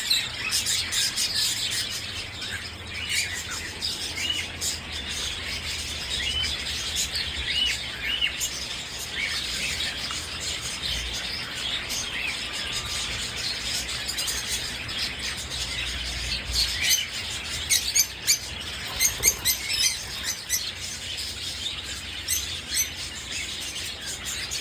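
Small birds chirping and twittering, many short high calls overlapping, with a run of louder, sharper chirps about two-thirds of the way through. A faint low rumble sits underneath.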